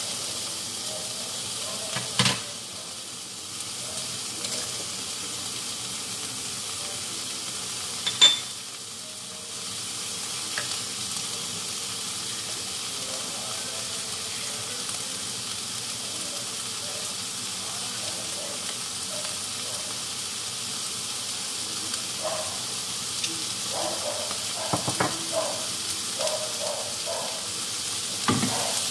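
Sliced Spanish chorizo and diced vegetables sizzling steadily in oil in a frying pan. Two sharp knocks come at about two and eight seconds in, and a run of lighter clicks and taps near the end, from the cooking utensils against the pan.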